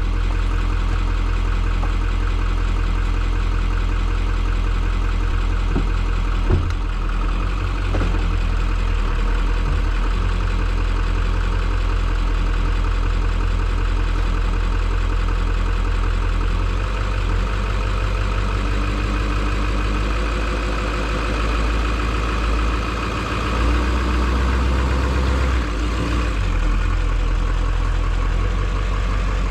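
Chevy Duramax diesel truck engine running steadily under throttle as the truck works to pull free from deep mud, its note shifting a few times.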